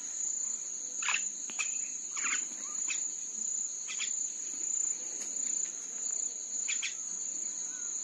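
Common mynas give about six short chirps over a steady high-pitched insect drone.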